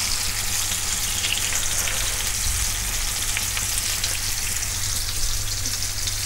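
Chicken seekh kebabs sizzling in hot oil in a grill pan: a steady frying hiss with fine crackling. A steady low hum runs underneath.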